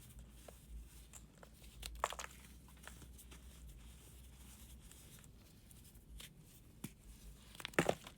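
Brittle material crumbled and crunched by hand: scattered small crackles, with a louder crunch about two seconds in and another near the end.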